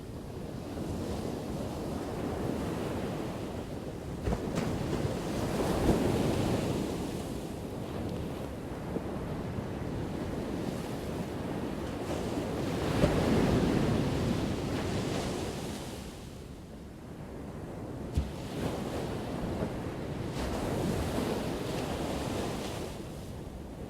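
Ocean waves breaking and washing on a shore, a continuous surf that swells and eases with each wave, about three big breakers in the span, with a few brief sharp splashes.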